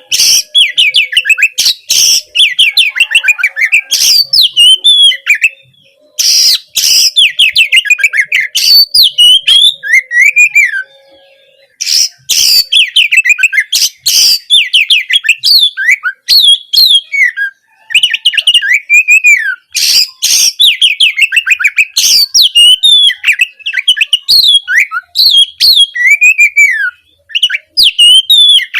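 Oriental magpie-robin (kacer) singing a long, fast, varied song of sharp whistled notes and rapid chattering runs, with a short pause a little before the middle.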